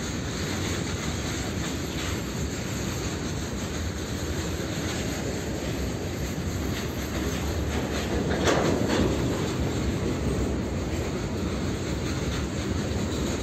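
Open freight wagons of a long goods train rolling past on the rails, a steady rumble and clatter of wheels, with a louder clatter about eight and a half seconds in.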